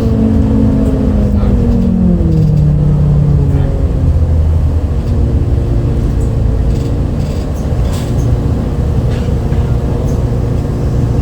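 MAN D0836 six-cylinder diesel engine of a 2008 MAN Lion's City A37 bus, heard from inside the bus. The engine note falls over the first few seconds, then settles into a steady lower drone.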